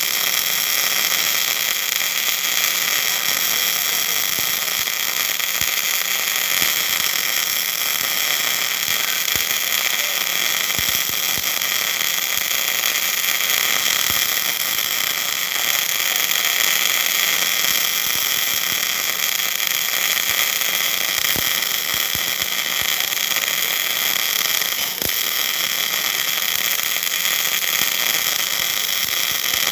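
MIG welding arc sizzling steadily with a scattered crackle as a weld pass is laid on a hydraulic cylinder rod.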